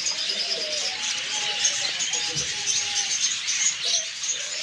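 Many small caged birds chirping together in a dense, continuous chatter of short high calls.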